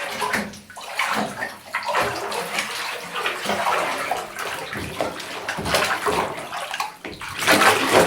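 Water sloshing and splashing irregularly as a small taped homemade model wagon floating in it is rocked and pushed down, with a louder splash near the end.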